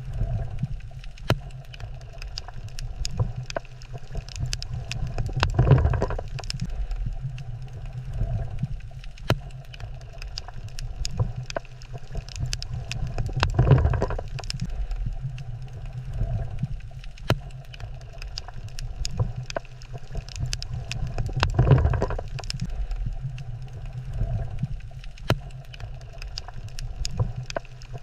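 Underwater coral-reef ambience: a steady low rumble with scattered sharp clicks and crackles. A louder low surge swells and fades about every eight seconds, three times.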